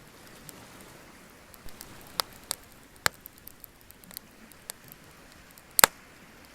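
Wood bonfire crackling: scattered sharp pops over a faint steady hiss, the loudest a quick double pop near the end.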